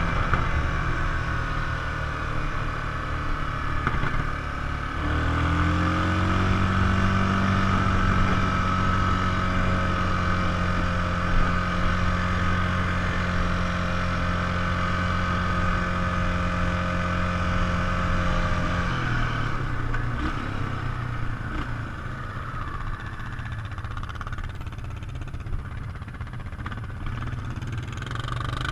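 ATV engine running while riding. The revs climb about five seconds in and hold steady for some fourteen seconds, then fall back to a lower, rougher running sound.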